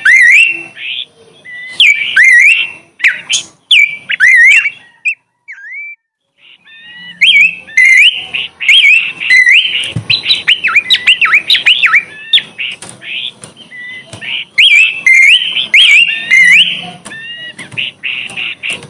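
Songbird singing a fast, varied run of chirps and whistled notes. It breaks off for about a second and a half around five seconds in, then starts up again.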